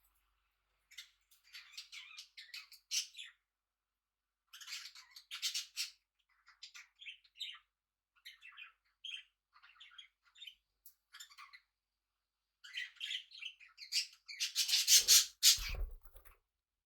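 Small pet parrots chirping and squawking in short, broken clusters, with a few brief pauses. Near the end comes a louder, denser run of calls along with a low thump.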